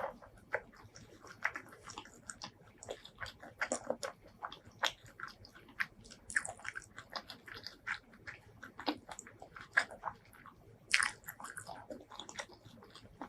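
Close-miked eating: a steady run of short, irregular wet chewing and biting sounds, with louder crunches here and there, the loudest about eleven seconds in.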